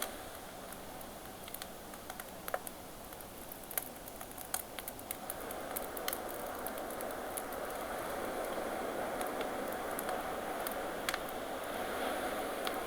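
Campfire crackling with scattered sharp pops, over a steady wash of ocean waves that slowly swells.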